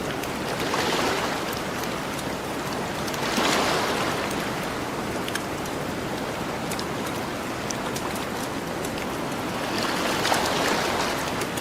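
Gentle ocean waves washing onto a beach, with three swells in a steady wash, over a campfire's light crackle of small scattered pops.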